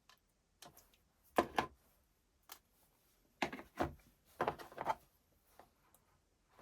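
Clicks and knocks of small parts and tools being handled during a cordless drill gearbox repair. They come in short clusters: a loud pair about a second and a half in, then two busier groups around three and a half and four and a half seconds in.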